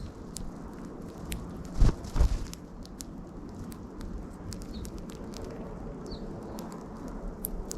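Birds feeding on scattered seed close to the microphone: many sharp clicks of beaks pecking and feet on the lawn, with a few short, faint chirps. Two loud thumps about two seconds in.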